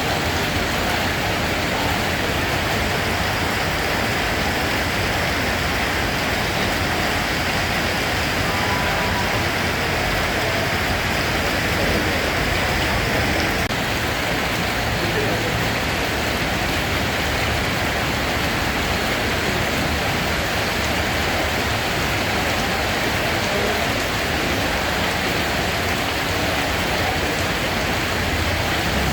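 Steady rain falling: an even, continuous hiss of drops with no breaks or thunder.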